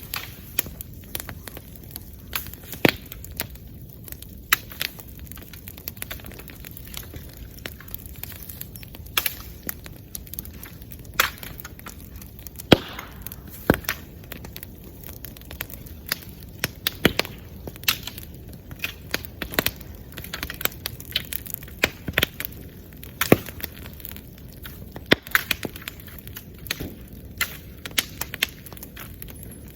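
Bonfire crackling: sharp, irregular pops and snaps, several every few seconds, over a steady low background of the burning fire.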